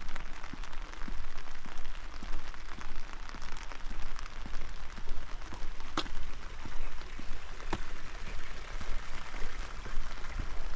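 Steady rain falling, a dense haze of many small drop hits, with two sharper, louder drops about six seconds and nearly eight seconds in.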